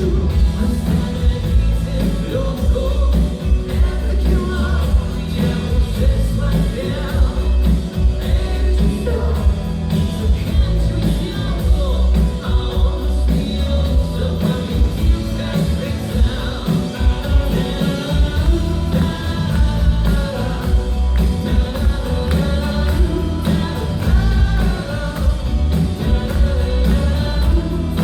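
A rock band playing live with a singer, over a heavy, steady bass and drum beat.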